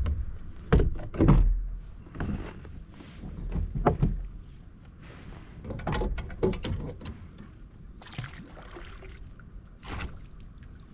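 A series of irregular knocks and hollow thunks from the kayak and its gear being handled, the loudest about a second in, with a few more through the middle and one near the end.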